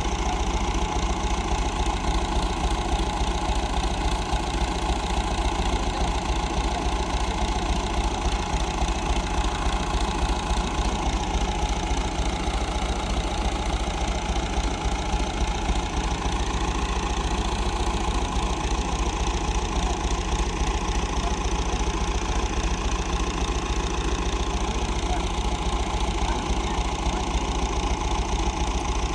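An engine running steadily at a constant speed, with a fast, even low pulse.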